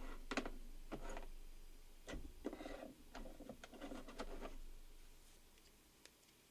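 Faint handling sounds: scattered light clicks and rubbing of small objects being moved, dying away to near silence about five seconds in.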